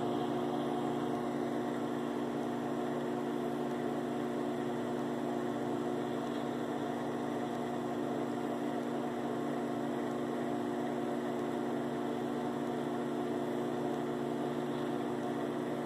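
Microwave oven running, a steady, unchanging hum made of several low tones over a soft whirr.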